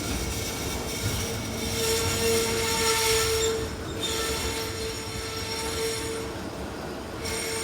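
Freight train rolling slowly past with a steady, sustained squeal from its wheels and brakes, under a low rumble of the wagons.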